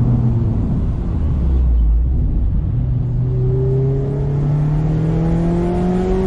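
Mazda MX-5 ND's four-cylinder engine running through an Ulter sport exhaust, driving under load. The note sags for a couple of seconds, then climbs steadily as the car accelerates.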